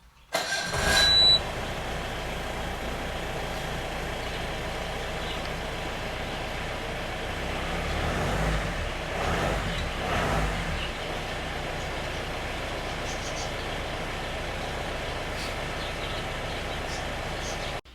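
A Willys Jeep's engine starts with a brief loud burst, then idles steadily. It is revved twice, briefly, around the middle.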